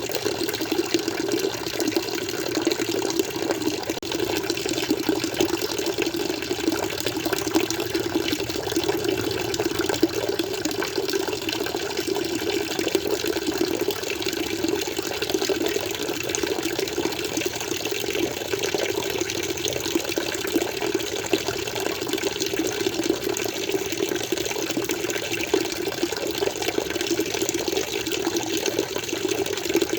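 Aquarium water flowing in a steady, unbroken stream.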